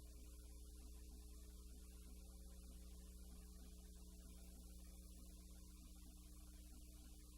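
Near silence with a steady low electrical hum and faint hiss on an otherwise soundless film soundtrack.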